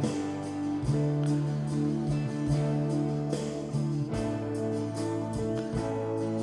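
Band music played back from a multitrack recording through a digital mixer during a virtual sound check: strummed guitar over sustained bass notes, with a steady beat.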